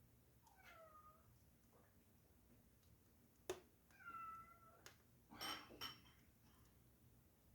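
Domestic cat meowing twice: a short call falling in pitch about half a second in, and a level one about four seconds in. A sharp click comes just before the second meow and a brief noisy rustle just after it.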